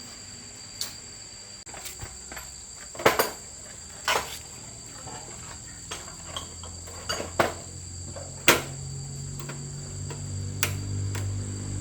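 A steady, high-pitched cricket trill, with about half a dozen sharp knocks and clinks scattered through it, like tools on metal. A low hum swells in over the last few seconds.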